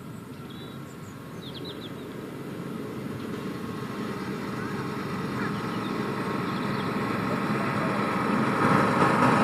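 Miniature railway diesel locomotive's engine running and growing steadily louder as the train approaches.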